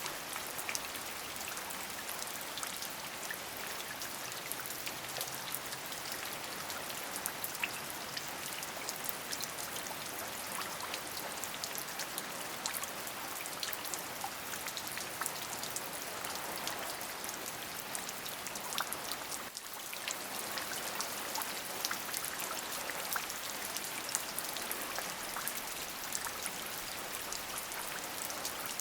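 Steady rain: a dense, even hiss with many individual drops ticking through it, dipping briefly about two-thirds of the way through.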